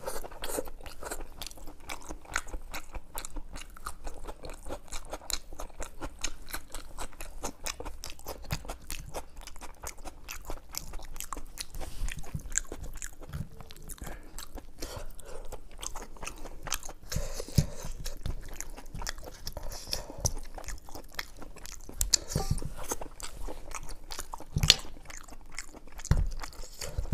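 Close-miked chewing of mutton head curry eaten by hand: a dense run of sharp, wet mouth clicks and smacks, with a few louder low knocks near the end.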